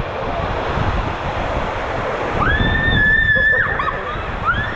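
Rushing water and wind buffeting the microphone on a water-park slide ride. About two and a half seconds in, a high held scream lasts about a second, with a shorter high cry near the end.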